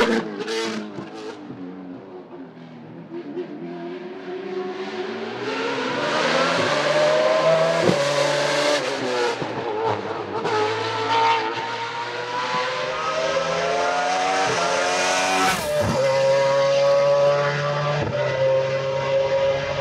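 Racing car engine accelerating hard up a hillclimb, its pitch climbing through each gear and dropping sharply at upshifts about eight, sixteen and eighteen seconds in. A loud car fades away at the start before the next one builds in volume as it comes nearer.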